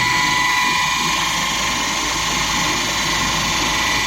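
Stainless steel universal disc grinder running, a steady high-pitched whine over a rushing hiss.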